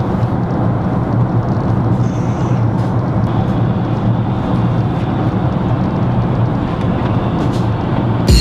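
Steady roar of a jet airliner's cabin in cruise: engine and airflow noise with a constant low hum.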